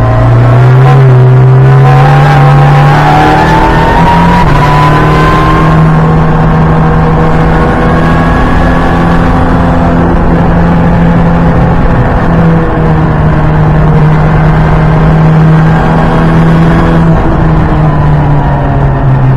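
Ford Fiesta EcoBoost's turbocharged engine at high revs, heard from inside the cabin, its note climbing over the first few seconds as the car accelerates, then held steady with a couple of brief dips.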